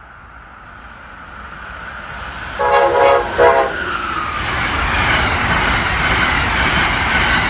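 Passenger train approaching at speed and sounding two short horn blasts about three seconds in, then passing close by with a loud, steady rush of wheels and air.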